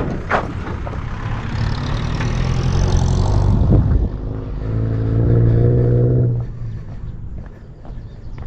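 A motor vehicle passing by: its engine and road noise build up, hum steadily for a moment about five seconds in, then fade away near the end.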